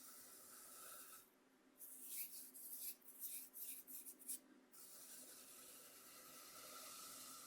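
Coarse cornmeal rubbed and scraped across a bamboo cutting board: a quick run of soft, scratchy strokes lasting about three seconds in the middle, over a faint steady hiss.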